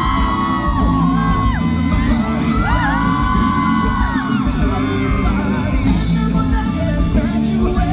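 Live pop band with a heavy drum beat, and voices holding long sung notes twice, with a crowd whooping, heard from within a concert audience.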